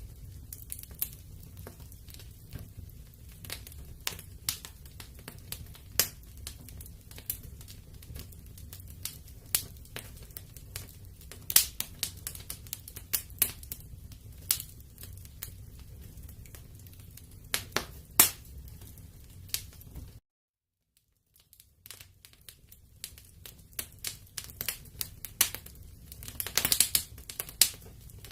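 Wood fire crackling, with irregular sharp pops and snaps over a low rumble of the flames. The sound cuts out completely for about a second two-thirds of the way through, then the crackling returns, growing busier near the end.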